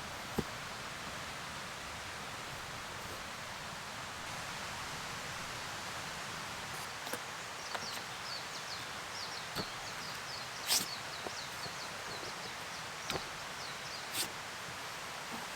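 Steady rain falling in woodland, with scattered sharp taps of drops or small knocks. A bird gives a rapid series of short high notes from about seven seconds in until near the end.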